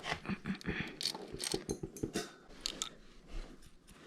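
Irregular light metallic clicks, taps and scrapes of small engine parts being handled as the cam sprocket and timing chain are fitted back onto a Honda SL70 engine while setting the valve timing.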